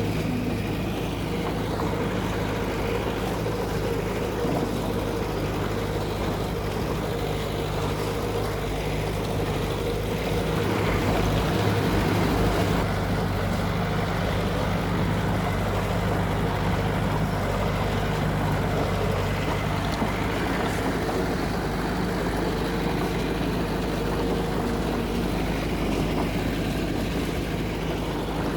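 Heavy construction machine's diesel engine running steadily at a constant pitch, growing a little louder about ten seconds in for a couple of seconds.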